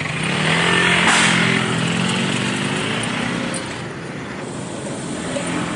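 A road vehicle passing close by on the street, its engine note and tyre noise swelling to a peak about a second in, then fading over the next few seconds.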